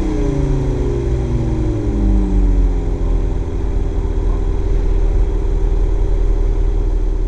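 2010 Jeep Wrangler engine running. Its revs fall back over the first couple of seconds and then hold steady at idle. It makes the noise of an engine that ran without oil, with damaged main and connecting-rod bearings.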